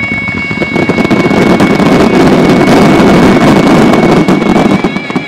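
Rapid barrage of firework shells bursting so close together that they merge into one continuous rumble, building up about a second in. Music holds a single long wavering note over it.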